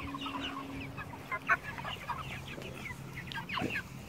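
A flock of young meat chickens free ranging, giving many short scattered peeps and soft clucks, with a couple of louder calls.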